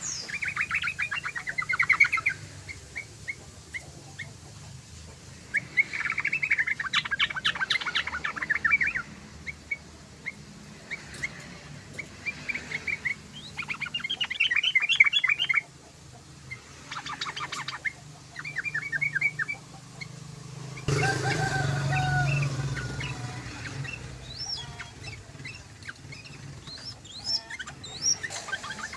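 Yellow-vented bulbul (trucukan) singing in repeated bursts of rapid chattering notes, each burst two to three seconds long with short pauses between. About three-quarters through, a short stretch of lower, noisier sound sits under the song.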